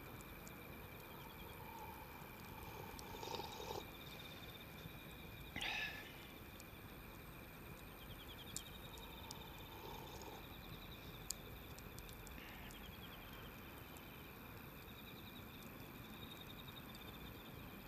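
Quiet wood fire giving a few sharp crackles, over a steady high chirring of insects. A couple of short, louder rustling bursts stand out in the first third.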